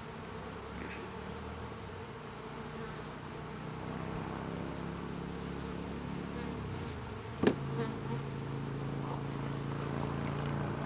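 Honeybees buzzing in a steady drone around an open hive, getting louder about four seconds in. A single sharp knock about seven and a half seconds in.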